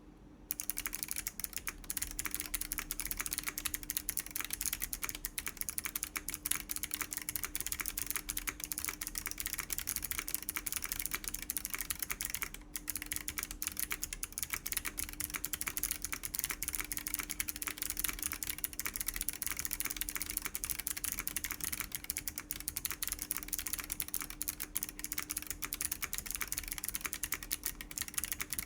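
Typing on a Chilkey ND104 mechanical keyboard fitted with WS BigLucky clicky switches, an FR4 plate and PBT doubleshot keycaps. Fast, continuous keystroke clicks start about half a second in, with a brief pause about twelve seconds in.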